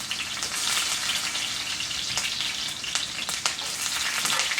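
Sweet onion slices frying in hot Crisco shortening in a cast-iron skillet: a steady sizzle with scattered small pops and crackles.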